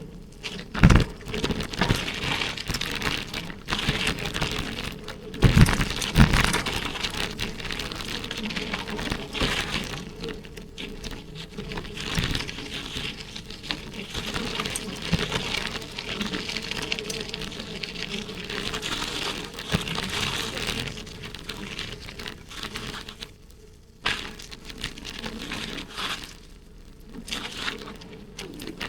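Wind rushing over an action camera's microphone, with rattling and rumble from a bicycle being ridden. Loud thumps come about a second in and again around six seconds in.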